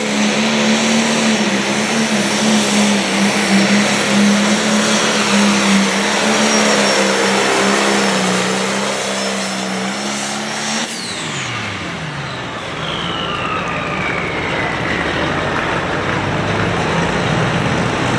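Pulling tractor's diesel engine running flat out under load at a steady pitch. About eleven seconds in the power is cut: the engine note drops away and a high whistle winds down in pitch.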